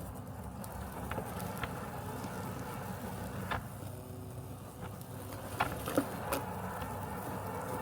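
Robotic lawn mower running with a steady mechanical hum, with a few short ticks scattered through it, the loudest about six seconds in.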